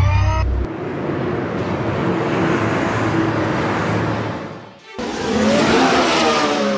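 Car engine sound effect: an engine revving up in pitch at the start, then a steady rushing drive sound, a brief cut just before five seconds in, and another rising rev near the end.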